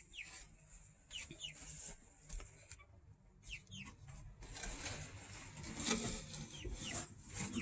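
Chickens clucking faintly, a scatter of short calls.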